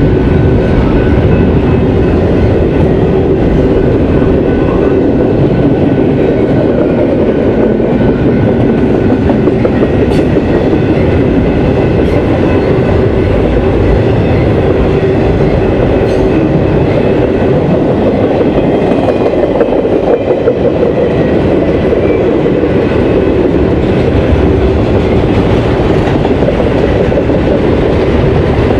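Cars of an intermodal freight train rolling past at close range: a loud, steady rumble of steel wheels on rail, with occasional sharp clicks.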